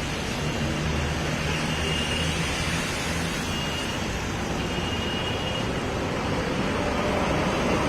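Steady outdoor traffic noise: vehicle engines running with a low hum under a broad noise wash.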